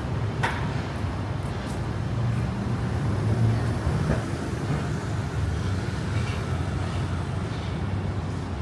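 City street traffic: a steady low rumble of passing motor vehicles, with a couple of short sharp clicks.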